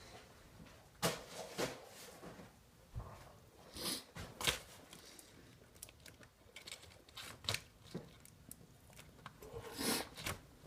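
A person chewing and eating a hot dog close to the microphone: irregular wet mouth smacks and clicks, with a few louder ones about a second in, around four seconds in and near the end.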